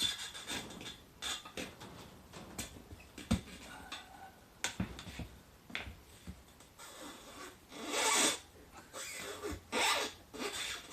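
An 18-inch Bridgestone Battlecross X20 motocross tyre being worked onto its rim, its bead a stiff fit: rubber rubbing and scraping against the rim with scattered clicks. The longest, loudest scraping comes about eight and ten seconds in.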